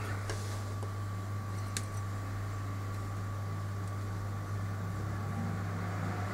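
Steady low electrical hum with a faint, steady high whine over it, and one light click about two seconds in.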